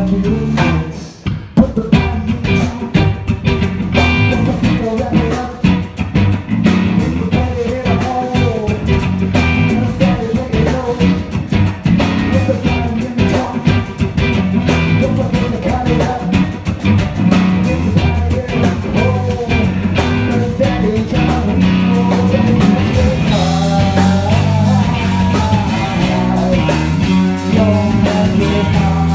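Live funk-rock band playing: electric guitar, bass guitar and drum kit. The band drops out briefly about a second in, then comes back in full, and the sound gets brighter in the last several seconds.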